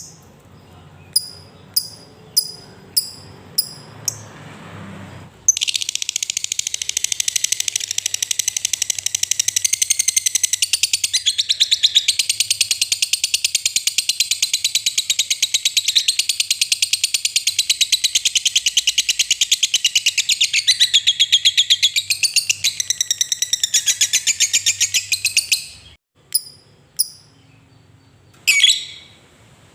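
Lovebird giving about six sharp single chirps, then breaking into one long, fast rattling trill, the 'ngekek panjang' long chatter, that runs about twenty seconds before ending in a few more short chirps.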